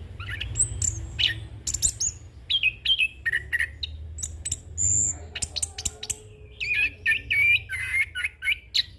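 Chestnut-capped thrush (anis kembang) singing a continuous, rapid song of varied whistled notes, quick rising and falling slurs and sharp clicks, packed with mimicked phrases. A steady low hum sits underneath.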